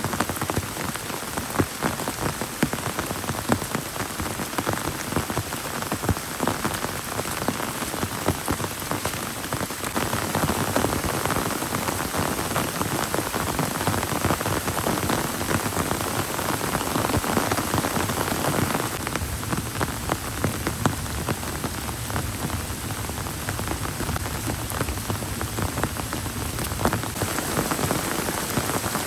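Heavy rain pouring down and hitting a surface, a dense steady hiss full of individual drop ticks; the downpour thins a little about two-thirds of the way through.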